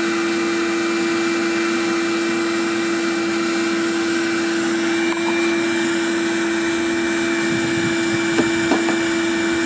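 Homemade bee vacuum running steadily, a constant-pitched motor hum over a continuous rushing hiss of suction.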